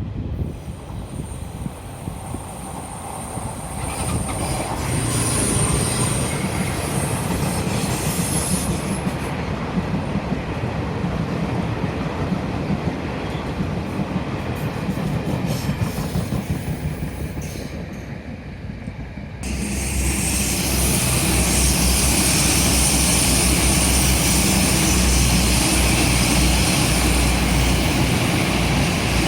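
A Chu-Kuang locomotive-hauled passenger train runs through a sharp curve, its wheels giving a thin, high squeal over the rumble of the wheels on the rails. About two-thirds of the way in, the sound cuts abruptly to a louder, steadier run with a deep engine drone: a DR2800 diesel multiple unit passing.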